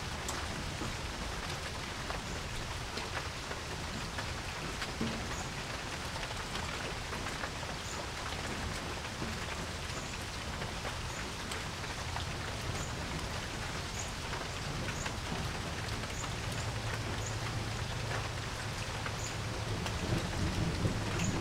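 Steady rain falling on a porch, with many separate drops ticking close by. A low rumble builds in the last few seconds.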